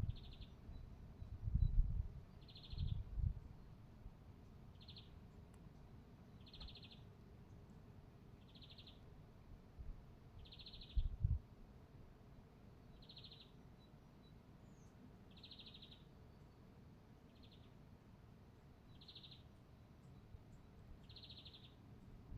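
A bird repeating a short, buzzy call about every two seconds, over a faint steady background hiss. A few low rumbles come in the first few seconds and again about eleven seconds in.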